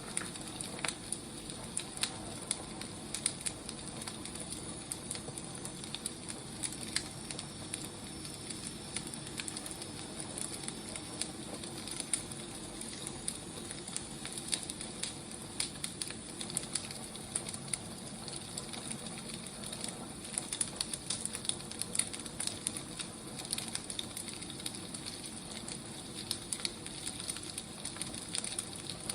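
Firewood burning, a steady low hiss with frequent irregular crackles and pops.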